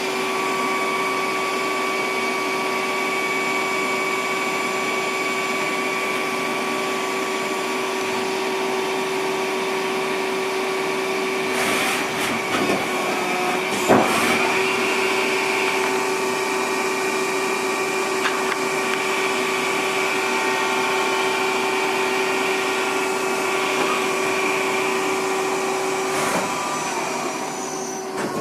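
Samsung PL10 CNC lathe running an automatic cycle at full rapid speed: a steady machine whine from the spindle drive, with a few short clunks about twelve and fourteen seconds in, after which the whine shifts slightly in pitch.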